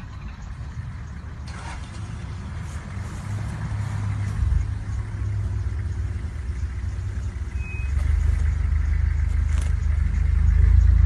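Safari vehicle engine running with a steady low rumble, growing louder about four seconds in and again about eight seconds in.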